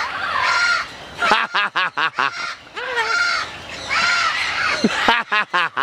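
Goffin's cockatoo calling: harsh squawks that alternate with two quick runs of short, chattering notes.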